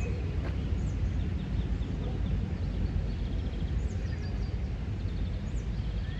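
Songbirds chirping and trilling, with short quick notes and rapid trills, over a steady low rumble of outdoor background noise.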